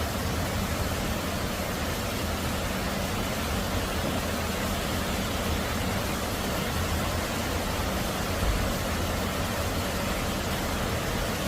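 Steady heavy rain making an even hiss, with a low rumble underneath and a brief low thump about eight and a half seconds in.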